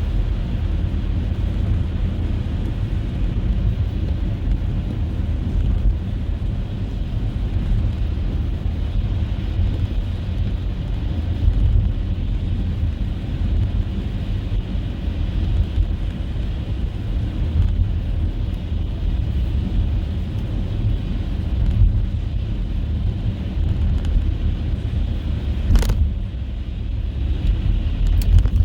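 Car driving on a snow-covered road: a steady low rumble of tyres and engine, with a single short click near the end.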